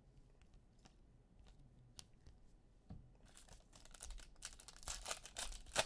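A football trading-card pack's plastic wrapper being torn open and handled, a dense rustle starting about three seconds in after a few faint ticks.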